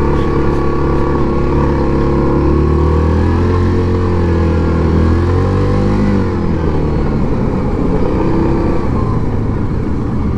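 Yamaha Grizzly 700 ATV's single-cylinder four-stroke engine running under way on the trail, climbing in pitch for a couple of seconds and dropping back about six seconds in, then running steadily.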